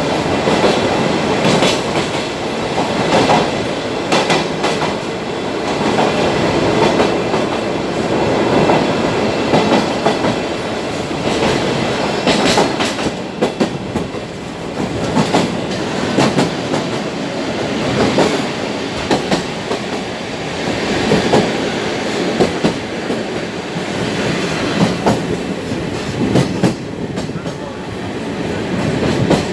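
Sagano Trolley Train running along the track, heard from on board: a steady rumble of the carriage with wheels clicking irregularly over the rail joints.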